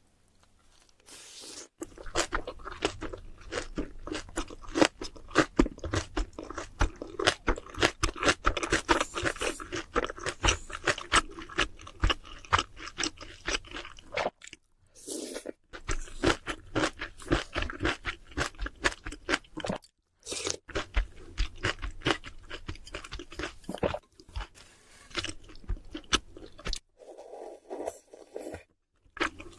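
Chewing and crunching of crispy fried food: a dense run of crackling bites and chews, broken by two short pauses.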